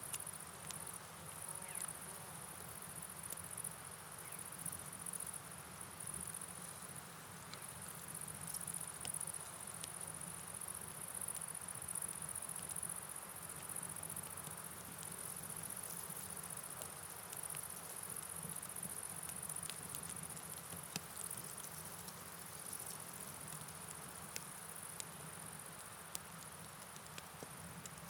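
Night rain ambience: steady rain pattering with a continuous high-pitched chirring of night insects over it, and scattered light ticks of drops.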